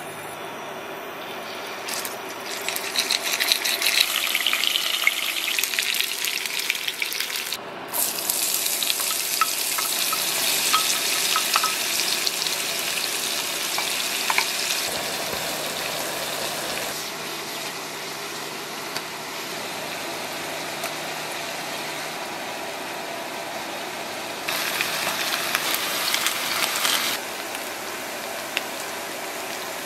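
Food frying in hot oil in a pan, a steady sizzle that swells louder a couple of seconds in and again near the end. Chopped vegetables are tipped in and stirred.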